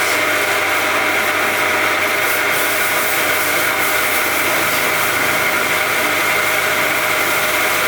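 A power tool switched on just before, running steadily at speed with a high whine and a rough, hissing rub.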